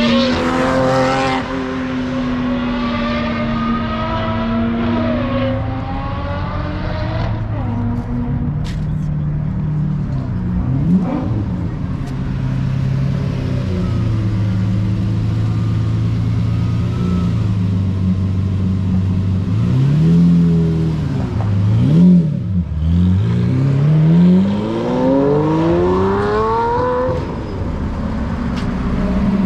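Car engine running and revving. Its pitch rises and falls in the first few seconds, holds steady through the middle, and gives a few quick revs up and down about two-thirds of the way in. A long rising rev follows near the end.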